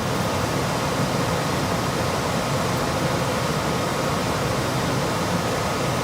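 ICP Comfortmaker gas furnace blower motor and fan wheel running steadily at speed, a rush of moving air with a faint whine. The blower is energised through a jumper from R to G on the control board for a test run, and with no continuous-fan tap it runs on the heat or cool speed.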